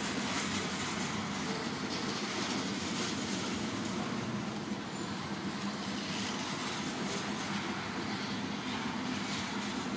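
Freight train cars rolling past a grade crossing: the steady noise of steel wheels running on the rails.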